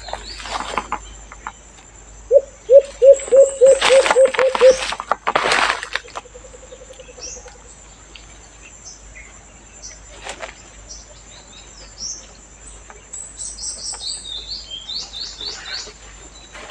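A dove cooing in a quick run of about eight short low notes, with loud rustles in the middle, and high, short chirps of small birds, most of them in a cluster near the end.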